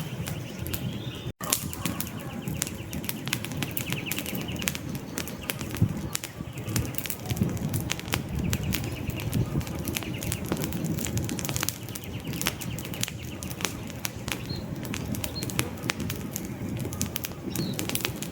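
Wood campfire crackling: dense, irregular pops and snaps of burning logs over a low rustle of flames. A few faint high bird chirps come in near the end.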